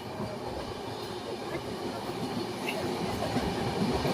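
Train running along the track: a steady rumble of wheels and carriages that grows slightly louder.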